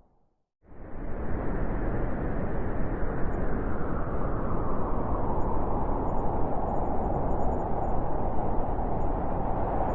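Blizzard wind blowing hard and steadily, a dense rushing noise. It drops out to silence right at the start and fades back in within the first second.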